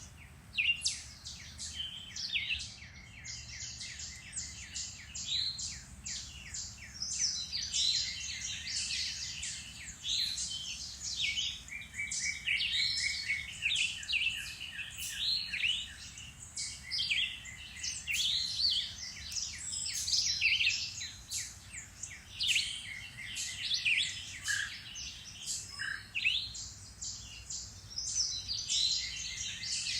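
Several songbirds singing at once in woodland, a dense chorus of overlapping chirps and short high whistled phrases.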